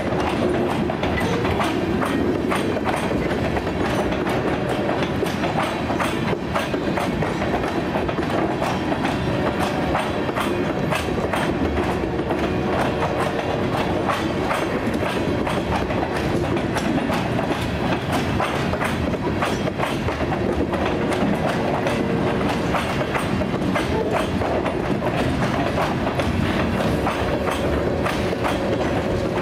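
Freight train of covered hopper cars rolling past close by, the steel wheels clacking and knocking steadily over the rail joints of badly maintained branch-line track.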